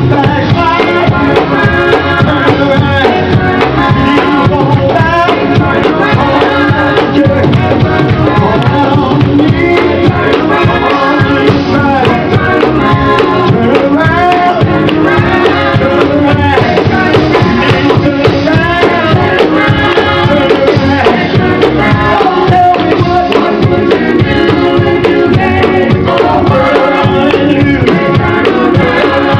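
Live gospel group performing: singing over a band with drums and a steady beat.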